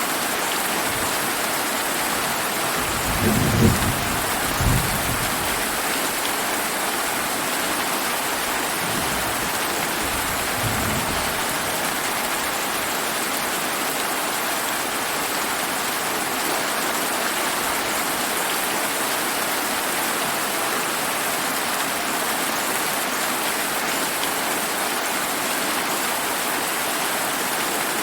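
Steady summer rain hissing, with rolls of thunder rumbling low about three to five seconds in and a fainter rumble around ten seconds.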